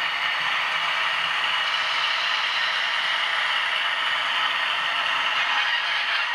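Model diesel locomotive running on the layout's track: a steady whir of its small electric motor and gears with the rolling of its wheels.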